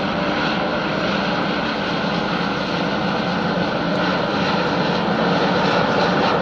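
Jet aircraft flying over, a loud steady engine noise that grows a little louder towards the end.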